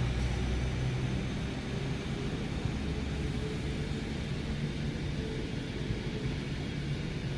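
Northern CAF-built multiple-unit train pulling away and receding: a steady low rumble and hum that slowly fades.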